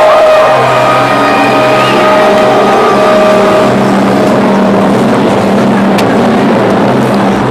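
Loud arena din: a crowd's steady noise with music playing over the PA system.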